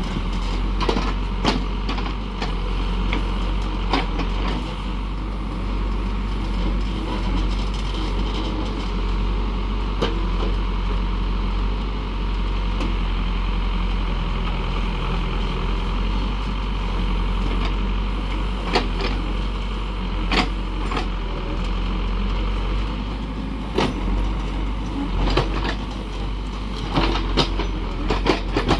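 Diesel engine of a heavy Cat construction machine running steadily, with sharp clanks every few seconds.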